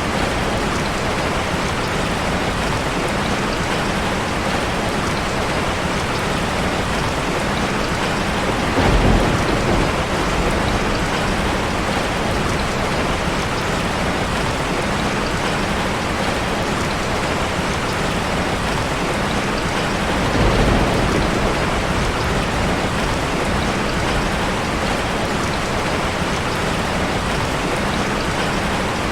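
Steady rushing of a waterfall mixed with a crackling fireplace. Two brief low thumps come through about nine and twenty seconds in.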